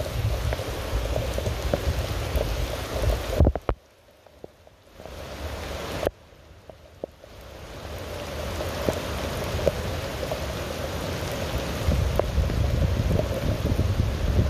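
Steady heavy rain with many sharp drop hits and a low rumble beneath. It cuts out abruptly nearly four seconds in, returns briefly, drops again about six seconds in, and then swells back to full strength.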